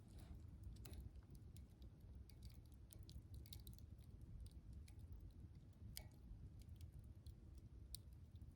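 Wood campfire crackling softly: scattered small pops and snaps over a low steady rumble, with a sharper snap about six seconds in.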